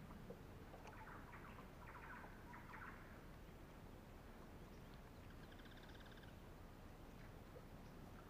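Faint birds calling over near-quiet water: a few chattering calls in the first three seconds, then a short rapid trill about halfway through.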